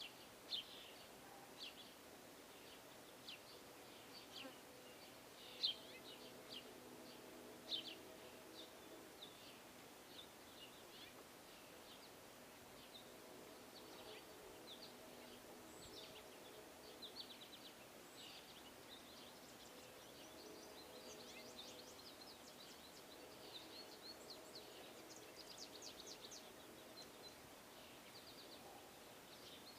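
Small birds chirping at feeders: scattered short, sharp chirps with a few rapid trills, under a faint low hum that comes and goes.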